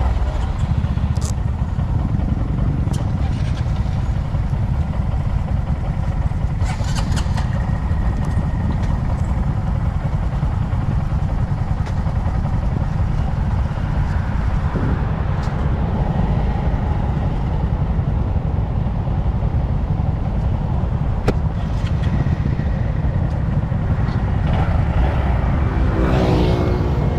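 Motorcycle riding sound: a steady low wind rumble on the microphone over the running engines of Honda Monkey 125 motorcycles, small single-cylinder bikes. Near the end, an engine note rises as one accelerates.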